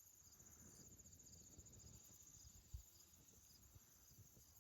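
Faint crickets chirping in a high, evenly repeating pulse, over a low rumble, with one soft bump a little past halfway.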